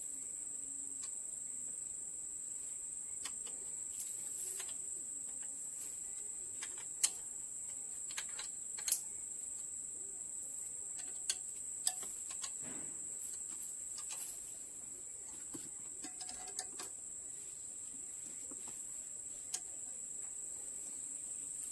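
Crickets chirring steadily in a continuous high-pitched drone, with a few scattered sharp clicks and taps.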